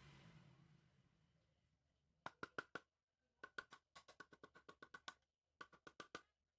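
Three runs of sharp, ringing clicks, rapid and evenly spaced, about six a second in the longest run, like a small metal mechanism being worked by hand.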